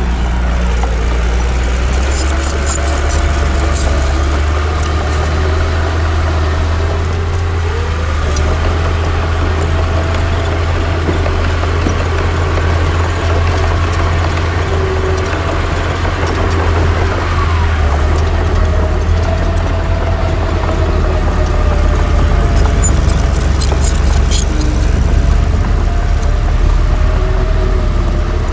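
Heavy diesel engine of earthmoving machinery running under varying load, its pitch rising and falling. Clusters of sharp clicks come a few seconds in and again near the end.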